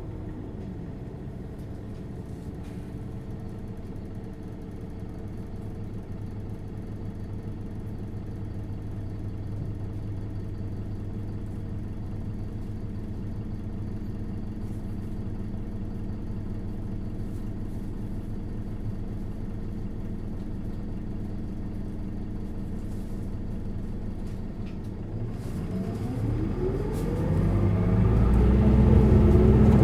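Isuzu Erga LV290N1 city bus's four-cylinder diesel engine heard from inside the bus, idling steadily at rest. Near the end it revs up with a rising pitch and grows louder as the bus pulls away.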